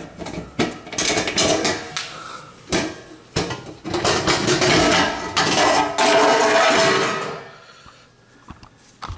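Dishwasher's metal lower access panel being worked loose and slid off by hand: clanks and clicks, then a few seconds of metal scraping and rattling that stop about seven seconds in.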